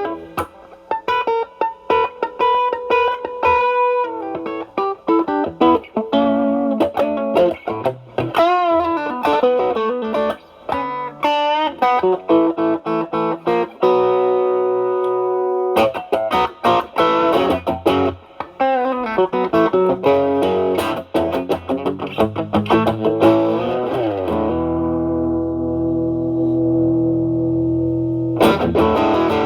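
Electric guitar: a Stratocaster with single-coil pickups through an Ibanez Tube Screamer Mini overdrive pedal set to a low drive, into a Marshall Valvestate amp's clean channel, giving a lightly overdriven tone. It plays quick single-note lead lines with string bends, then a long held chord near the end.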